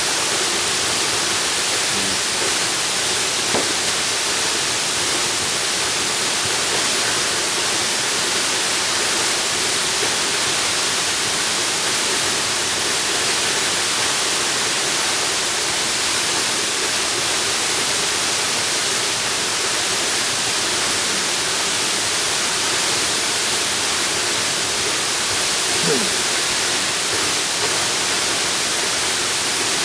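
Jungle waterfall: a steady, unbroken rush of falling water.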